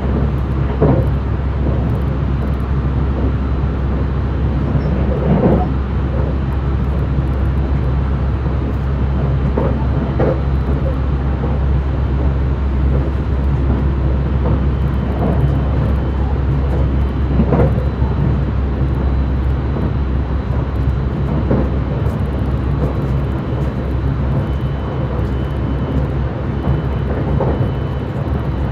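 JR West 681 series electric train running at speed, heard from inside a motor car: a steady low rumble of wheels and running gear, with a brief knock every few seconds.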